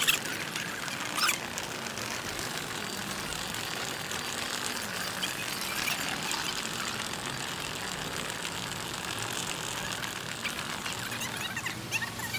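Wheeled suitcases rolling over pavement: a steady rumble and rattle that runs on throughout, with a couple of short clicks about a second in.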